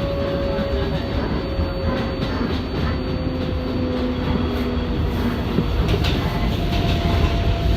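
Inside an R188 subway car of a 7 train running between stations: a steady rumble of wheels on rail, with faint steady tones and a few scattered clicks, growing slightly louder near the end.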